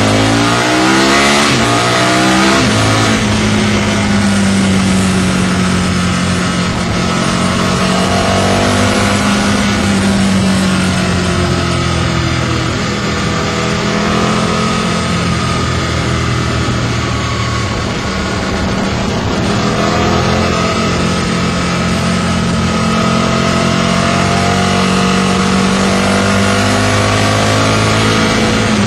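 Aprilia RSV Mille's V-twin engine through an aftermarket Micron exhaust under way. It revs up hard in the first few seconds, then holds a steady cruising pitch that swells and eases, dropping back about two-thirds through before picking up again.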